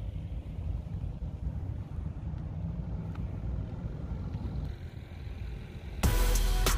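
Low, steady rumble of vehicles at a drag strip. About six seconds in it is cut off by loud electronic music with a hard beat.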